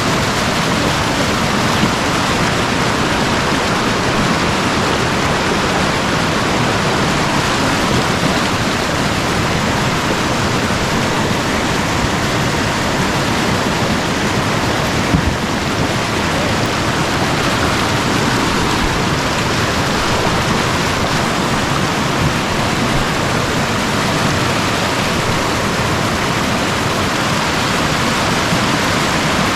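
Loud, steady rush of river water pouring over a rock dam and through its rapids.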